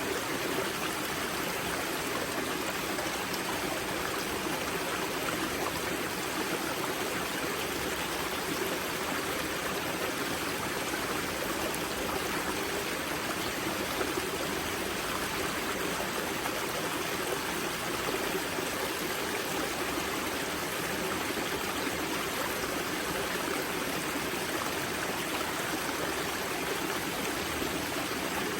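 Spring-fed mountain river water flowing over rocks at its source, a steady rushing and gurgling that does not change.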